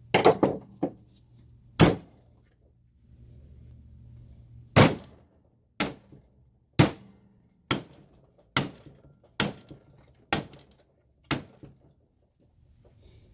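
Hammer blows on a bent metal amplifier chassis being straightened: a quick cluster of strikes, then a steady series of single sharp blows about once a second.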